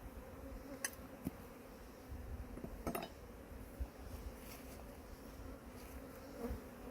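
Honeybees buzzing around an opened hive: a steady, even hum, with a few sharp clicks about one and three seconds in.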